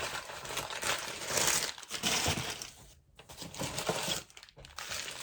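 A packing bag crinkling and rustling while septarian stones are handled and taken out of it, with a few small knocks.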